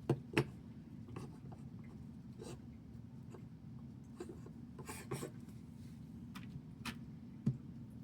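Small plastic building bricks clicking and tapping as they are handled and pressed together: two sharp clicks right at the start, scattered lighter ticks, and another sharp click near the end, over a steady low hum.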